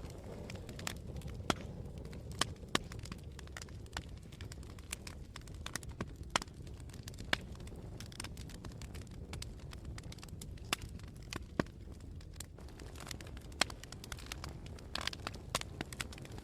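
Campfire burning, a steady low rush of flames and wind with sharp, irregular crackles and pops of burning wood.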